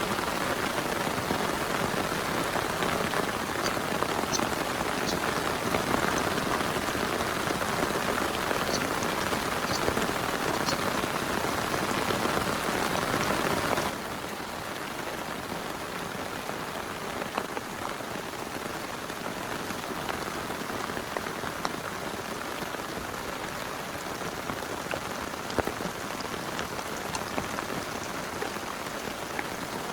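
Heavy rain falling steadily, with individual drop hits standing out. About halfway through the sound drops suddenly to a quieter level.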